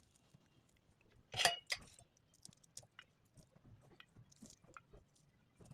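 Faint, scattered soft clicks and squishy sounds of food being handled, with one louder scrape about a second and a half in.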